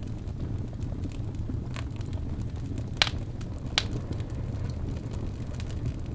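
Wood fire burning in a fireplace: a steady low roar of the flames with scattered crackles and pops, two sharper pops about three and four seconds in.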